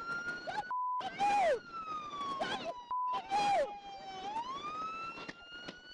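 Police car siren wailing, its pitch rising and falling slowly, broken twice by short bursts of hiss.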